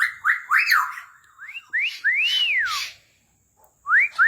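Pet parrot whistling clear, pure notes: a few quick rising whistles, then a long whistle that rises and falls, then more rising whistles near the end.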